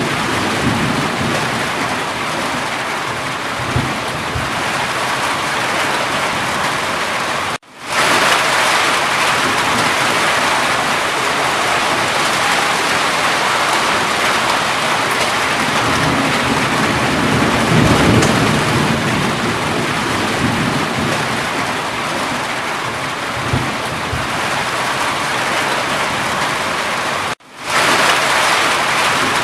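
Steady, heavy rain falling, with low rumbles of thunder swelling now and then. The sound cuts out briefly twice, about eight seconds in and near the end, and fades back in each time.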